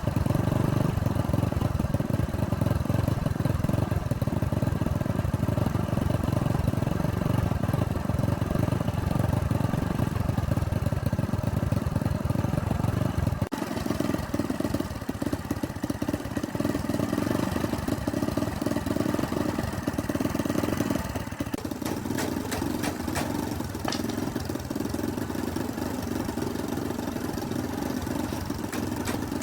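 The engine of a freshly restored old tractor running steadily. Its sound changes abruptly about halfway through, and a light rapid ticking runs over it in the last several seconds.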